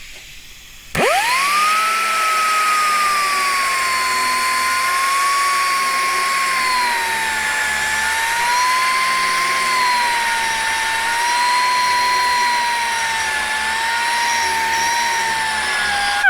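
3-inch Fuji pneumatic angle grinder with a double-sided milling disc, running on compressed air and milling into a weld bead. It spins up sharply about a second in to a high whine with air hiss, and the pitch sags and recovers as the disc bites. It begins to wind down at the very end.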